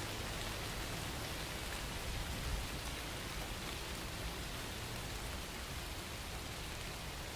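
Steady rainfall: an even hiss of rain with fine drops pattering on a surface.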